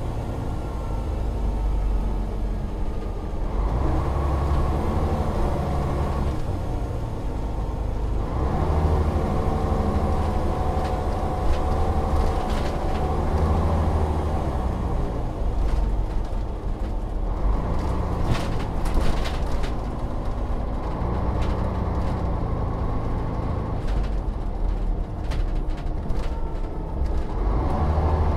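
Volvo Olympian double-decker bus driving, its diesel engine note running in stretches of a few seconds broken by several shifts in gear, with clicks and rattles in the second half.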